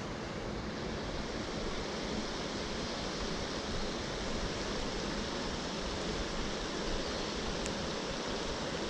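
Steady rushing of a mountain trout stream, an even wash of water noise with no break.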